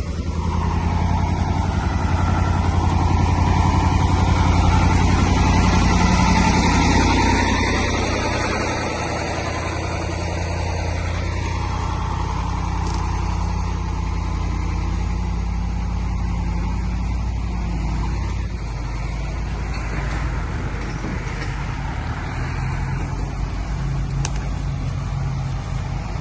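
Vehicle engine running steadily under way, a low drone that is a little louder for the first seven seconds and then settles slightly quieter.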